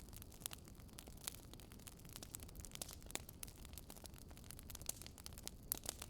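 Wood fire crackling softly: irregular sharp pops and snaps over a low steady hiss.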